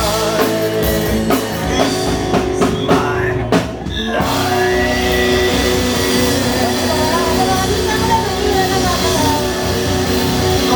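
Rock band music: drums and guitar, with a run of quick drum hits in the first few seconds, a short break about four seconds in, then a long held chord ringing on with sliding guitar notes.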